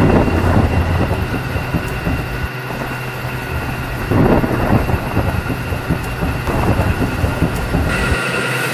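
Small electric motor of a DIY miniature tractor running with a steady whine, over irregular clattering and rattling.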